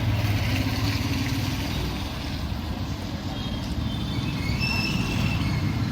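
City street traffic: a steady rumble of passing cars and trucks.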